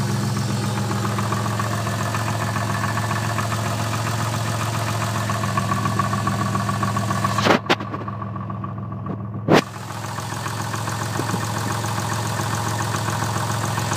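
Twin-turbo Toyota Supra's inline-six idling steadily with a fast, light knocking, which the owner suspects is piston slap. Near the middle come two short loud knocks about two seconds apart, with the sound muffled between them.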